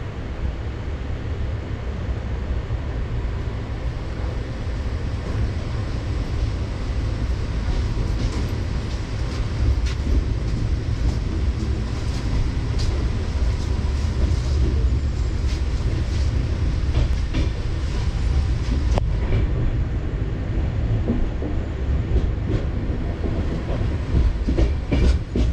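Passenger express train running along the track: a steady low rumble with scattered clicks from the wheels over the rails.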